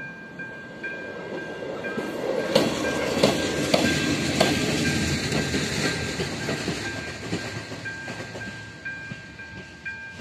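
A diesel railcar passes over a level crossing. Its rumble rises to a peak a couple of seconds in, with four sharp wheel clacks over the crossing rails, then fades away. Through it the crossing's electronic warning bell keeps ringing, about two to three strikes a second.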